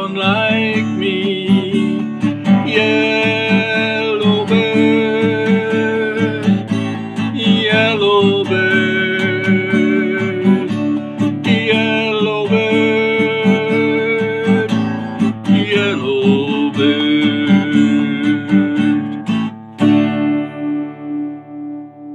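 Acoustic guitar playing the close of a Caribbean song, ending on a final chord about twenty seconds in that rings on and fades away.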